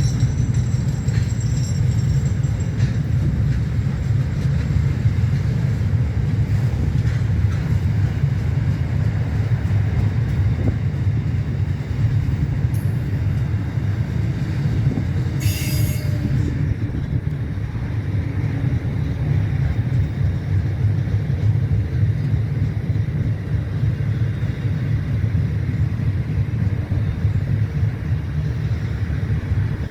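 Train running on the tracks: a steady low rumble of wheels and wagons on rail, with one short, sharp high-pitched screech about halfway through.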